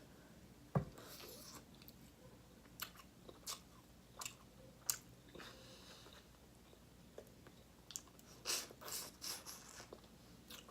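A person chewing food close to the microphone: faint, scattered wet clicks and crackles, with a denser run of them near the end.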